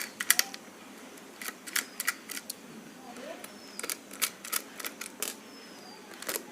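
Irregular sharp clicks of a screwdriver working the small screws out of a plastic speaker housing, coming in short clusters.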